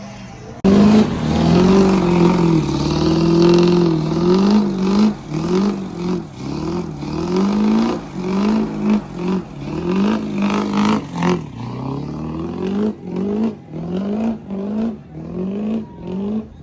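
Diesel pickup truck engine revving hard during a burnout: it comes in suddenly about a second in and holds high revs. It then bounces up and down in quick rising sweeps, roughly one every 0.7 seconds, to the end.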